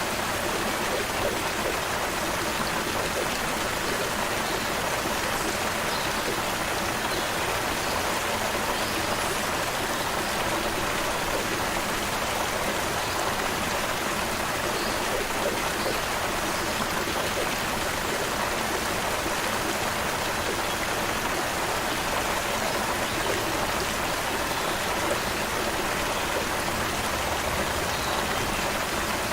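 Creek water flowing steadily, a constant rushing babble with no breaks.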